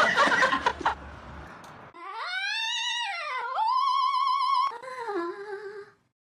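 A pet's long drawn-out vocal call. It rises and falls in pitch, holds a wavering tone for about a second, then drops lower and trails off, after a brief busy mix of sound at the start.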